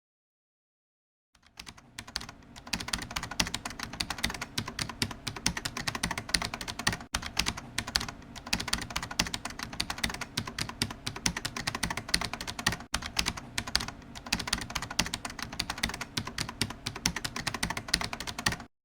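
Fast typing on a computer keyboard: a dense, continuous run of quick key clicks that starts about a second and a half in and cuts off suddenly near the end.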